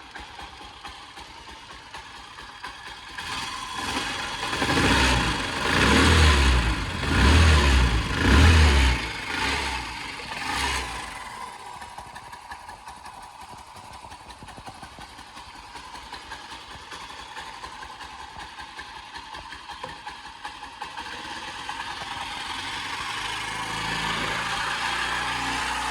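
Honda C90 Cub's single-cylinder four-stroke engine idling, then blipped four times in quick succession with a smaller blip after. It settles back to a steady idle, which picks up slightly near the end.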